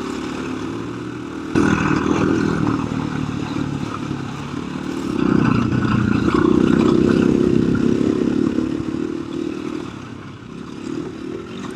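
KTM 350 EXC-F dirt bike's single-cylinder four-stroke engine under throttle on a rough trail. The revs swell about a second and a half in, pull hardest through the middle and ease off near the end, with chassis clatter from the bumps.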